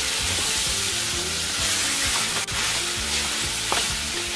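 Chicken breast pieces and shredded cabbage, peppers and carrots sizzling in a frying pan as they are stirred with a wooden spoon. Background music plays underneath.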